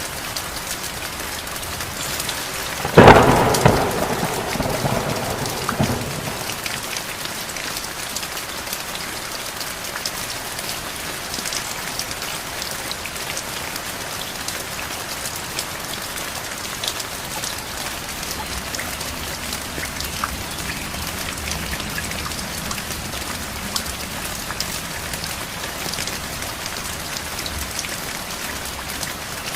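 Steady heavy rain pattering, with one sharp thunderclap about three seconds in that rumbles away over the next few seconds.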